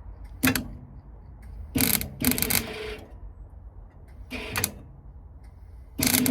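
A welder laying tack welds on a car's steel sill repair patch: short bursts of welding arc, each well under a second, about half a second in, twice around two seconds, once around four and a half seconds, and a longer one starting near the end.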